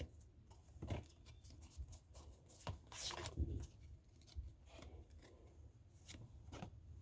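Faint rustling and clicking of trading cards and a foil booster-pack wrapper being handled, a few sharper ticks among them, the clearest about three seconds in.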